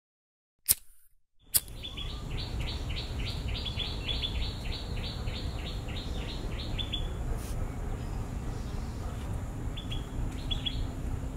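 Songbirds chirping in a quick run of short high notes, about four a second, then a few scattered chirps near the end, over a steady low outdoor rumble. This follows two sharp clicks in the first two seconds.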